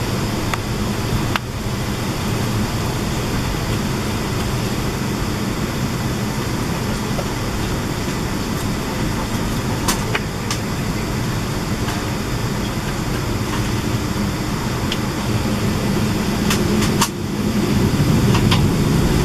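Steady jet airliner cabin noise on the ground before takeoff: engines running at low power under the hiss of the cabin ventilation, with a few faint clicks. It grows a little louder near the end.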